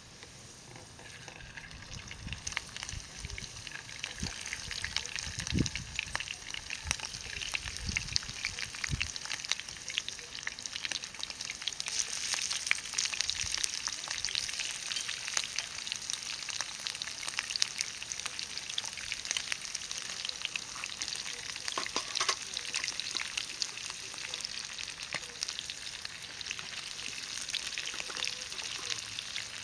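Oil sizzling and crackling in a pan as mushroom and shrimp ajillo cooks, building up about two seconds in and staying steady after that. A few low knocks come in the first several seconds.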